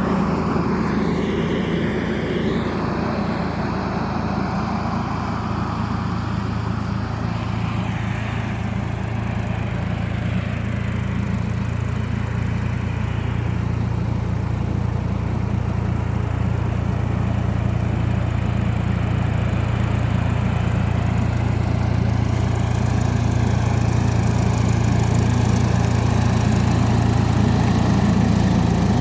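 Hattat B3065 tractor's diesel engine running steadily while driving a pesticide sprayer, growing a little louder over the last few seconds.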